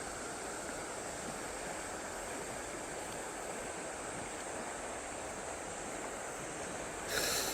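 Steady rush of river water running high after a downpour. Near the end comes a short burst of sharper hiss.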